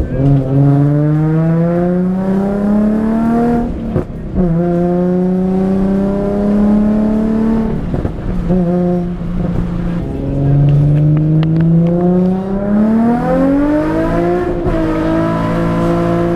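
Infiniti G37S's 3.7-litre V6 accelerating hard through the gears. Its pitch climbs and then drops at gear changes about four and ten seconds in. It climbs again strongly toward the end before levelling off.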